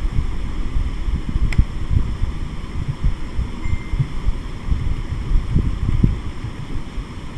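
Low, irregular rumbling with soft thuds, like wind or handling rumble on a microphone, without speech.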